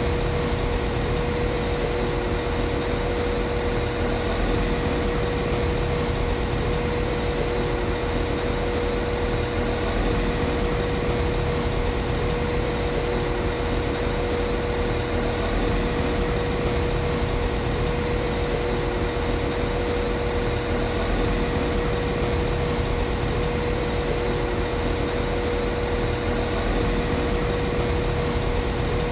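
Class 195 CAF Civity diesel multiple unit's underfloor MTU diesel engine idling steadily, with a steady hum held over the rumble.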